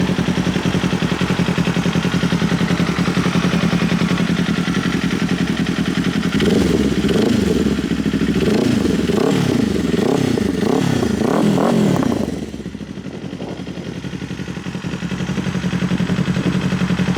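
2025 Kawasaki Ninja 500's parallel-twin engine, through a Leo Vince slip-on exhaust, idling steadily. About six seconds in it takes a string of quick throttle blips that rise and fall in pitch. After about twelve seconds it drops back, dipping briefly quieter before settling into idle again.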